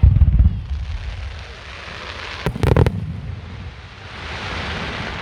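Aerial fireworks display: a deep boom of a shell bursting at the start, then a quick cluster of sharp cracks about two and a half seconds in, followed by a swelling hiss near the end.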